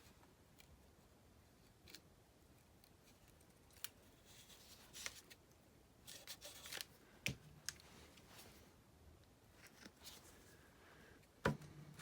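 Faint paper-crafting sounds at a table: paper handled and snipped in a few short bursts, with scattered sharp clicks and a louder knock near the end.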